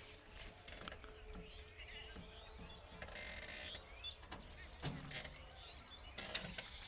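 Faint outdoor field ambience: a steady high insect drone with scattered bird chirps and small clicks.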